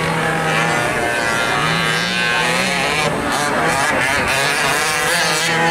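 Small gasoline two-stroke engines of 1/5-scale RC off-road trucks running on the track. Their buzzing pitch rises and falls as they throttle up and back off.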